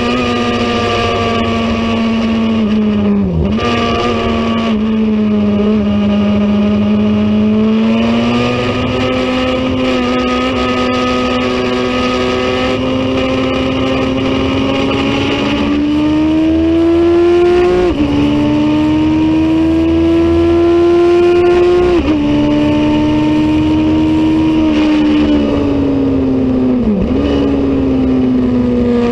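Racing motorcycle engine running hard at high revs. Its pitch climbs steadily and then drops abruptly twice, about eighteen and twenty-two seconds in, as it shifts up through the gears. There are brief sharp dips in pitch near the start and near the end.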